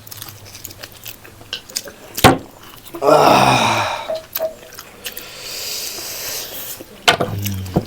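Close-miked eating sounds: small mouth clicks and chewing. A sharp click comes about two seconds in, then a loud breathy vocal sound about three seconds in.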